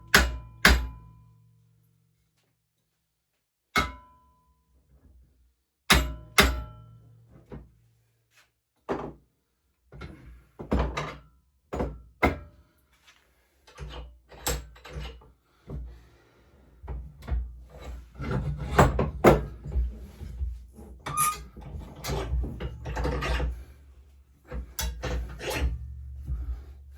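Heavy hammer striking bent steel on a pit bike frame to beat it back flush, each blow sharp with a short metallic ring. A few separate blows come first, then a run of irregular lighter knocks and clatter.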